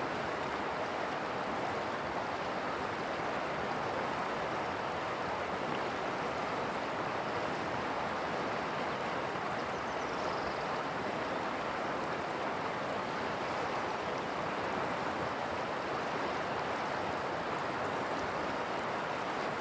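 Steady rushing of flowing river water, an even unbroken noise with no change in level.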